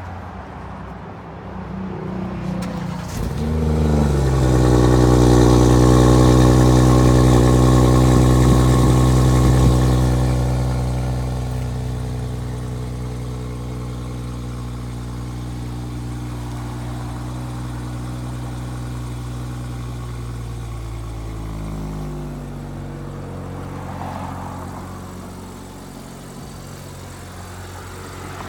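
2019 BMW 540i xDrive's turbocharged 3.0-litre inline-six started from cold: the starter cranks about two seconds in and the engine catches and flares to a loud, fast cold idle. Over the following seconds it settles to a quieter steady idle, and its pitch drops a little lower again near the end.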